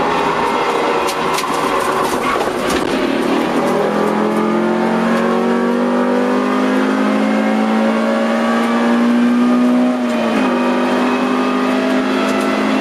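Honda CR-X EE8's four-cylinder engine heard from inside the cabin under hard acceleration. After a few rough seconds with rattling clicks, the engine note climbs steadily in pitch for about six seconds. Near the end an upshift drops the pitch and it pulls again.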